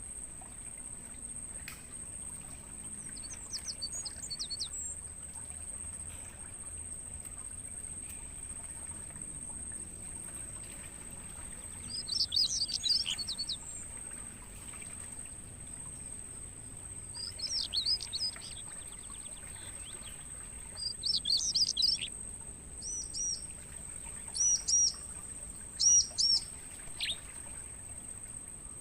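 Crickets keep up a steady, high-pitched trill throughout while a songbird calls over it: quick warbled phrases about 3, 12, 17 and 21 seconds in, then three short repeated notes and a falling note near the end.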